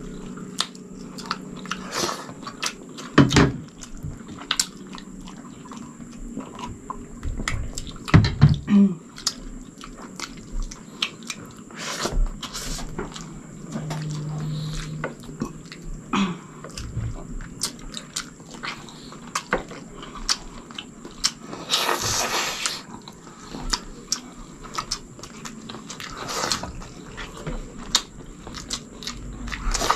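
Close-miked eating sounds of people eating chicken sinigang and rice with their hands: wet chewing, lip smacks and many small clicks. There is a short low hum about midway and a brief louder rushing burst about three-quarters of the way through.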